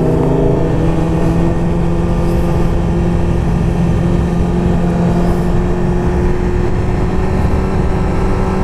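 Sportbike engine holding a steady, nearly unchanging engine note while the motorcycle cruises, with wind rushing over the rider's helmet-mounted microphone.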